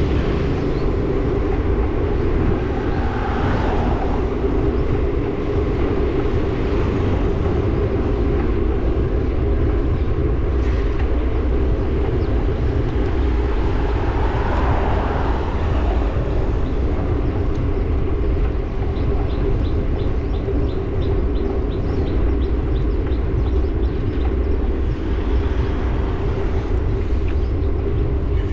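Riding a motorbike: the engine drones steadily while wind rumbles over the microphone. Near the middle, a run of faint quick ticks lasts a few seconds.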